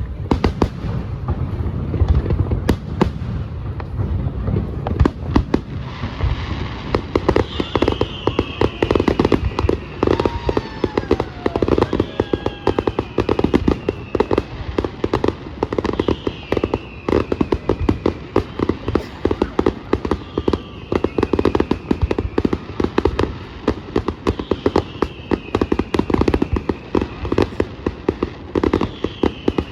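Fireworks display: a dense, continuous run of bangs and crackling shells. A high falling whistle repeats about every four seconds over the bangs.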